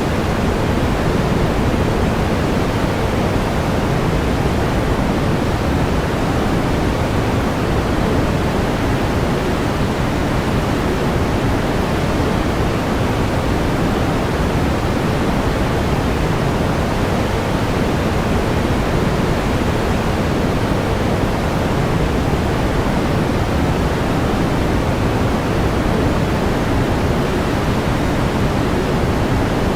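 Steady pink noise: an even, unchanging hiss weighted towards the low end.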